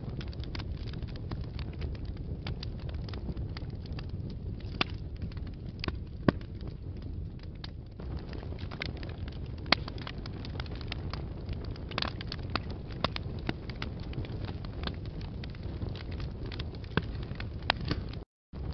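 Wood fire burning in a fireplace: a steady low rumble of flames with irregular sharp crackles and pops from the burning logs. The sound cuts out completely for a moment near the end.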